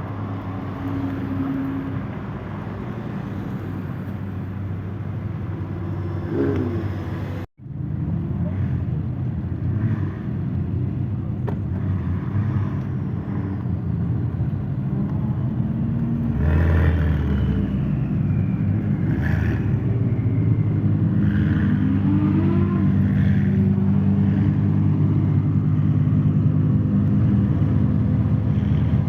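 Lamborghini engines running in slow traffic, a steady low engine note with a few short revs rising in pitch. The sound cuts out briefly about seven seconds in and is louder in the second half.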